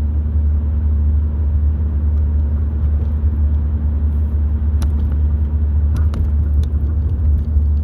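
Steady low rumble of a car driving, heard from inside the cabin, with a faint steady hum and a few faint ticks around five and six seconds in.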